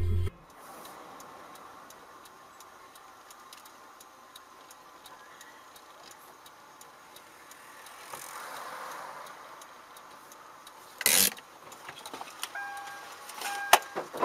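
Quiet car-interior noise with faint, regular ticking. About eleven seconds in there is a short loud burst, and near the end come a few sharp clicks and a steady electronic beeping tone.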